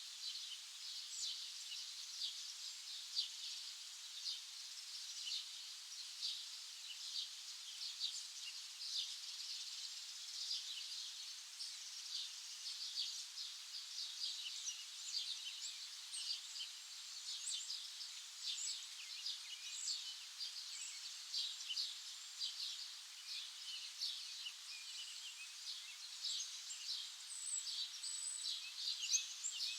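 Countryside nature ambience: a steady chorus of many short, high chirps overlapping throughout.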